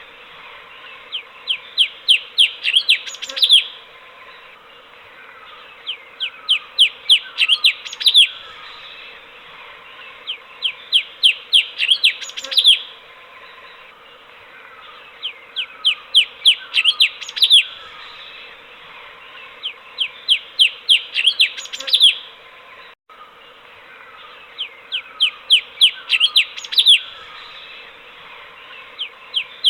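Cucak cungkok bulbul singing: a quick run of about eight to ten sharp chirping notes that grow louder and end on a longer note, repeated every four to five seconds. A steady hiss lies underneath.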